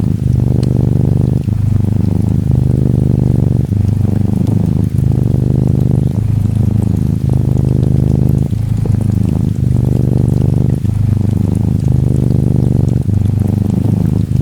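Norwegian Forest Cat kitten purring close up: a steady low rumble that breaks briefly every second or so as it switches between breathing in and out. Faint gentle rain patters behind it.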